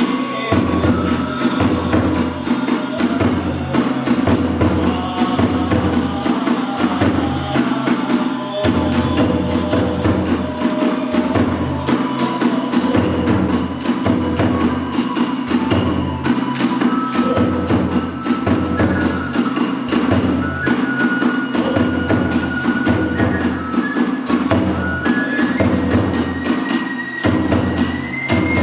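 Hiroshima kagura accompaniment: a large drum keeps up a steady driving beat under rapidly clashing small hand cymbals, while a bamboo flute plays a high, held melody above them.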